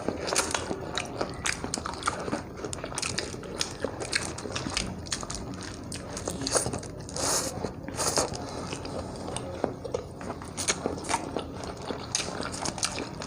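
Close-up eating sounds: biting and chewing food, with many quick wet clicks and smacks and a few louder crunchy bites about seven to eight seconds in.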